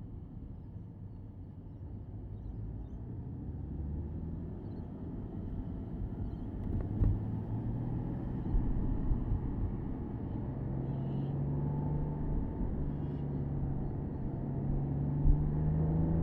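Porsche Boxster S (987.2) flat-six engine running under way with the top down, over a low road and tyre rumble; the engine note climbs steadily through the second half as the car gathers speed.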